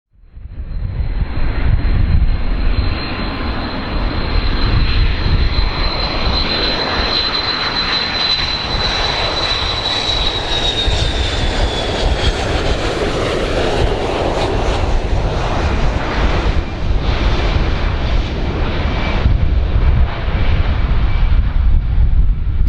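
Airplane engines running loud, cutting in abruptly: a deep rumble with a high whine on top that dips slightly in pitch about ten seconds in.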